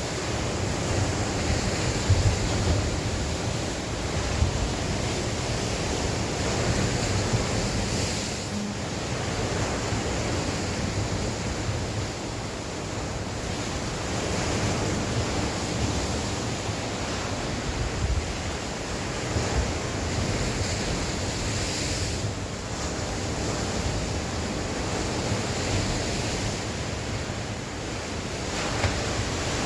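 Sea waves breaking and washing on the shore in a steady surge, with gusting wind buffeting the microphone as a low rumble.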